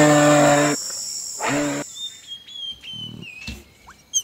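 A moose calling: one long, low call at a steady pitch that ends under a second in, then a shorter call about a second and a half in. Then faint bird chirps.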